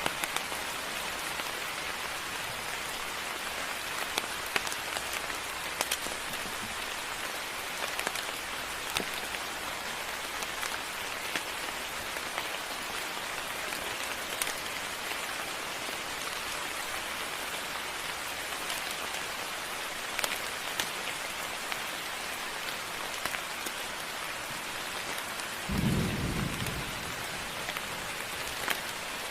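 Steady rain falling on surfaces, with scattered sharp drop taps. A short low rumble of thunder comes near the end.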